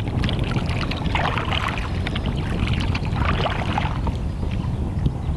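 Water splashing and sloshing around a canoe, in two louder washes about two seconds apart, over a steady low rumble of wind on the microphone.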